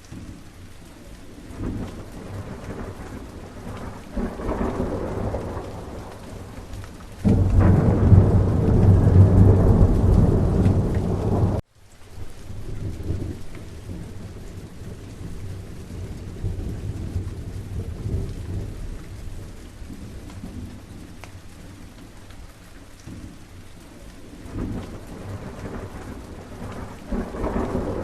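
Steady rain with rolling thunder. About seven seconds in, a loud clap of thunder comes in suddenly and rumbles for about four seconds before breaking off abruptly. The rain goes on, and thunder swells again near the end.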